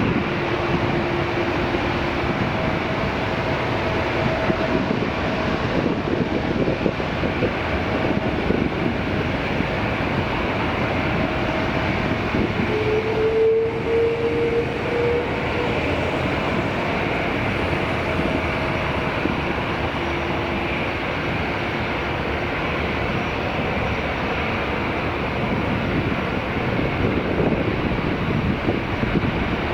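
Airbus A330-300 airliner's jet engines running, a steady, unbroken noise with faint tones in it and a brief rising whine about halfway through.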